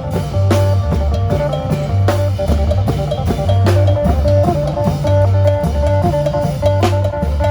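Isan phin band music: a plucked phin lute melody over drum kit and a heavy, repeating bass line in the lam phloen style.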